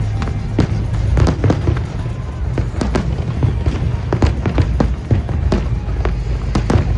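Fireworks going off in a rapid, irregular series of sharp bangs and crackles, over a continuous deep rumble.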